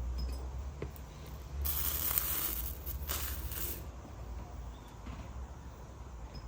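Soldering iron sizzling as it melts solder over flux: two short bursts of hissing, about a second and a half in and again near the middle, over a low steady hum.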